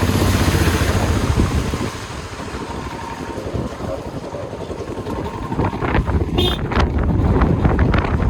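Vehicle driving along a mountain road with wind buffeting the microphone: a steady low rumble, with scattered knocks and taps in the second half.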